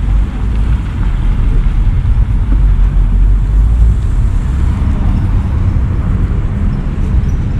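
Road traffic by a bus station: a steady low rumble of vehicle engines and tyres as buses come in.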